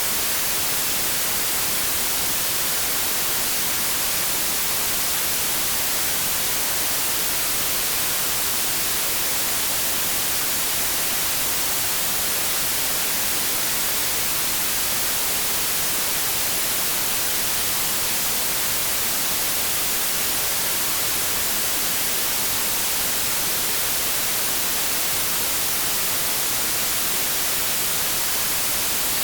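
Continuous white noise: a steady, even hiss, strongest in the treble, that never changes.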